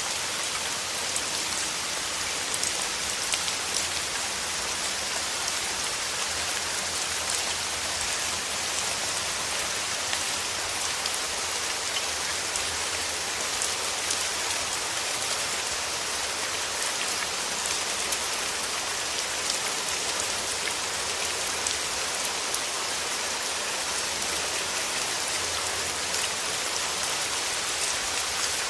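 Steady rain falling, an even hiss with many small raindrop taps scattered through it.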